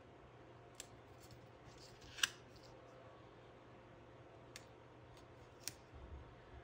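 Small handling noises from paper stickers and sticker sheets being placed: four short, sharp clicks over a faint steady low hum, the loudest about two seconds in.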